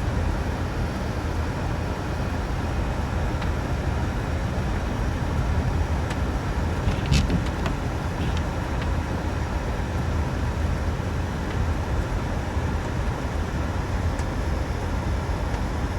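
A road vehicle driving: steady road noise, heaviest in the low end, with a few light ticks. It cuts off suddenly at the end.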